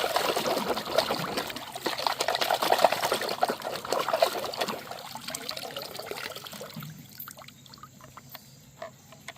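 Water pouring and splashing, dying away about seven seconds in, after which only a few faint clicks remain.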